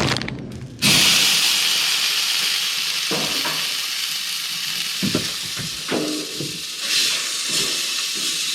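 Burger patty sizzling as it fries in a pan: a steady hiss that starts suddenly about a second in, with a few faint knocks over it.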